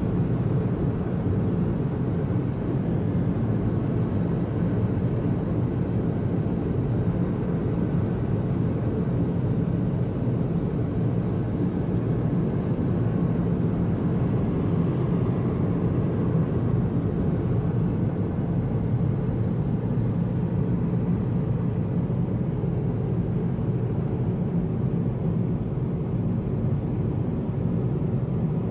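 Steady low rumble inside a moving vehicle, unbroken and even throughout.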